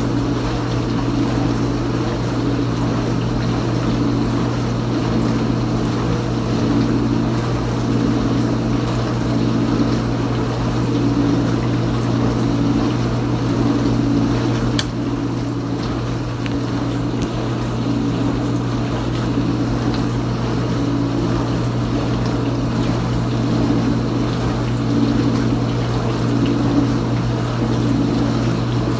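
Kenmore Ultra Wash 3 dishwasher running mid-cycle: a steady pump-motor hum under a swishing that swells and fades every second or so. A single sharp click comes about halfway through.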